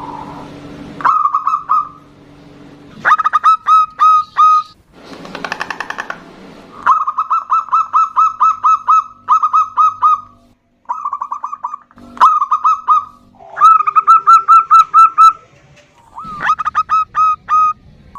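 Zebra doves (perkutut) calling back and forth in bursts of quickly repeated, bubbling coo notes. Some phrases are short and some run for several seconds, and there is a harsher, buzzier phrase about five seconds in.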